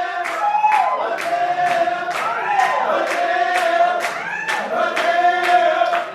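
Voices singing together in long held notes that slide up and down, over a sharp regular beat of about two hits a second.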